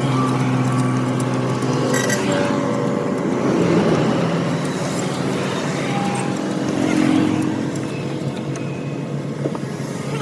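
An engine running steadily, with a few short metallic clicks about two seconds in.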